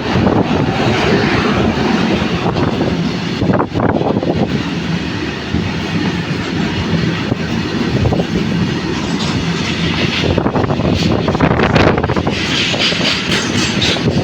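Freight train wagons rolling past close by, their wheels clattering steadily over the rail joints.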